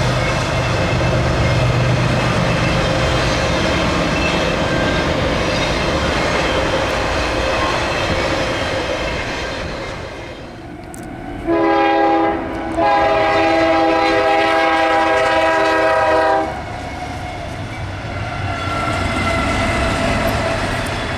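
Diesel freight train rumbling along the mainline. Partway through, its multi-chime locomotive air horn sounds a short blast, then after a brief gap a longer blast of about three and a half seconds. The rumble swells again afterwards.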